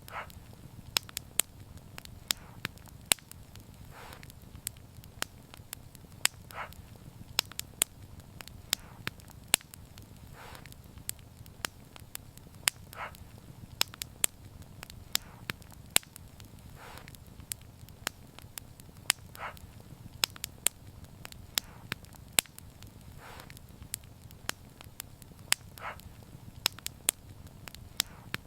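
Wood fire crackling: many sharp, irregular pops and snaps over a low steady rumble, with a soft short hiss recurring about every two and a half seconds.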